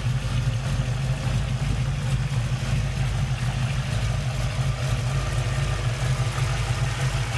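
1969 Camaro Pro Touring restomod's engine idling steadily and smoothly, heard up close at the open engine bay.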